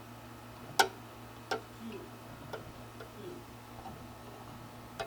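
Fingernails picking at the edge of protective plastic film on a new computer part: four sharp clicks, the loudest about a second in, with faint rustling of the film between them.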